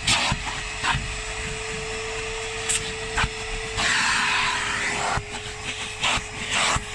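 Vacuum cleaner running steadily with a constant motor whine, sucking loose debris from an engine bay. Scattered clicks and rattles come as bits go up the nozzle. It stops at the end.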